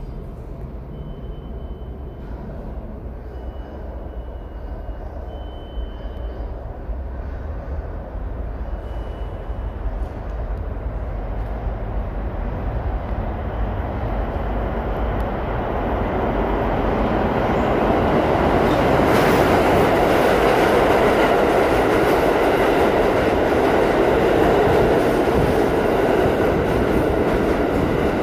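New York City Subway train approaching and running into the station, a low rumble that grows steadily louder and stays loud through the second half. A few short, high squeals sound in the first few seconds.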